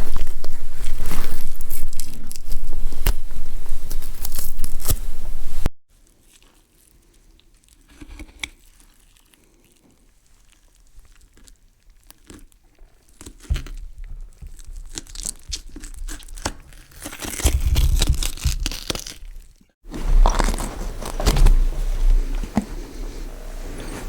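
Raw meat being cut and handled with a knife, a sound-effect recording of close, clicky crunching and tearing. It stops abruptly about six seconds in, followed by a much quieter stretch of fainter flesh cutting, and louder meat cutting starts again about twenty seconds in.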